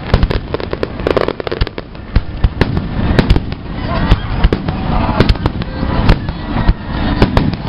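Fireworks salute going off: a rapid, irregular string of bangs and crackles.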